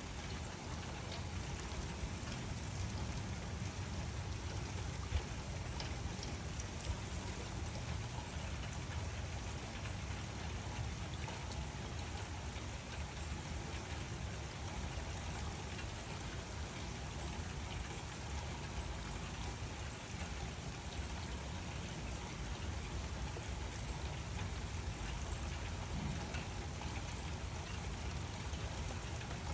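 Steady rain falling, an even hiss with many individual drops pattering on a surface and two slightly louder drop hits around five and seven seconds in.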